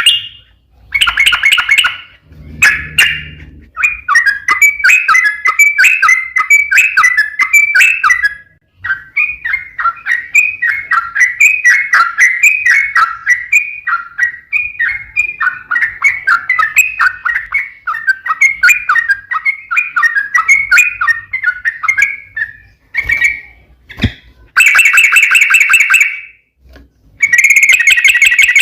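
Yellow-vented bulbul (trucukan) singing a long run of quick chattering notes, with short, louder, denser bursts of song near the start and again near the end.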